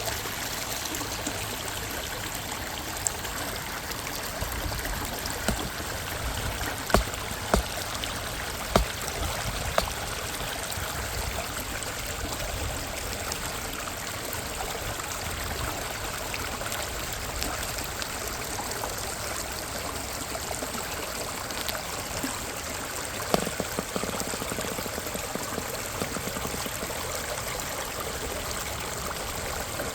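Minnehaha Creek's water rushing steadily, an even hiss of flowing water. A few short sharp clicks stand out, clustered between about 7 and 9 seconds in and once more about 23 seconds in.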